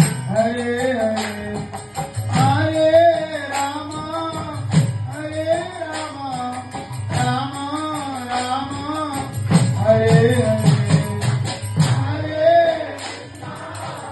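Devotional aarti song: a voice singing a gliding melody over a steady beat of jingling hand percussion.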